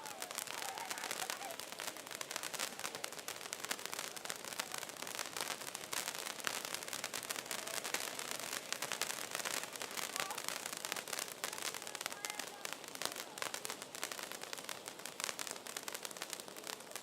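Daytime fireworks crackling: a dense, continuous stream of many small rapid pops.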